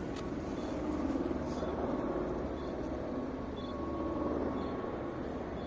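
Steady low drone of distant military aircraft passing overhead, with a faint pulsing texture.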